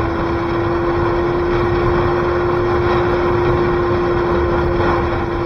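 Motorcycle engine running at a steady cruise, its hum holding one pitch, under heavy wind noise on the camera microphone.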